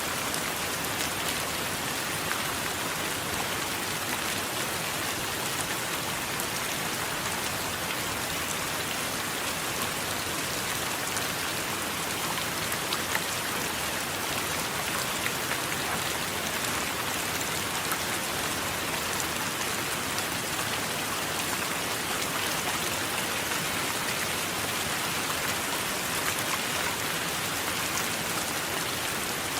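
Steady heavy rain falling and pattering on surfaces, an even hiss with many fine drop ticks throughout.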